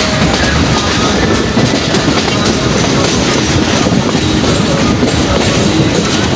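Passenger train running: a loud, steady rumble and rattle of the wheels on the rails.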